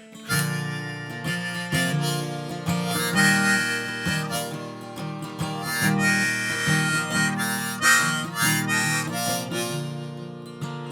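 Harmonica playing a melody over strummed acoustic guitar, the instrumental intro of a folk song.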